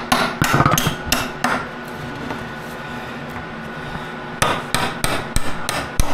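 Hammering: two quick runs of sharp strikes, several in the first second and a half and another run starting about four and a half seconds in.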